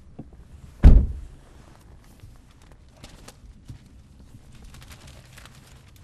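A single heavy thump about a second in, fading quickly, followed by faint scattered clicks and rustles.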